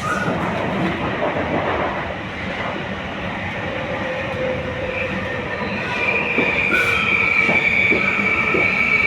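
RER B commuter train running on the rails, with a steady high wheel squeal setting in about six seconds in and growing louder as the train slows into the station, along with a few faint knocks.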